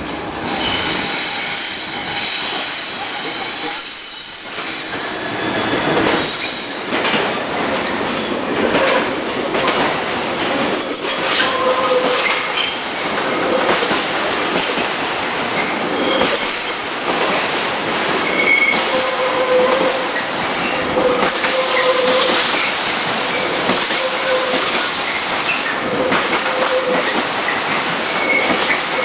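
A slow engineering train of open wagons behind a Class 66 diesel rolls past, rattling, with repeated clicks of wheels over rail joints. Wheels squeal in on-and-off high tones, with a longer shrill squeal around three-quarters of the way through.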